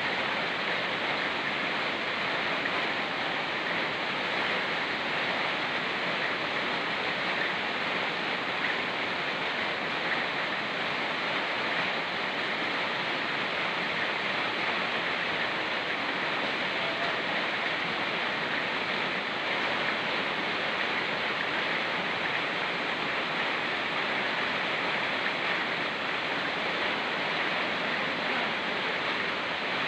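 A fast-flowing mountain stream with rain falling: a steady, even rush of water with no breaks.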